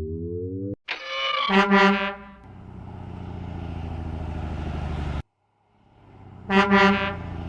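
Truck horn and engine sound effects. A short rising tone opens, then two sets of three quick honks, each followed by a steady low truck engine running. The engine cuts off suddenly about five seconds in and fades back up.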